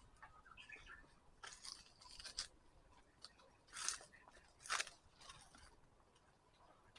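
Footsteps crunching softly on a forest path, a handful of steps with the two loudest a little under a second apart past the middle.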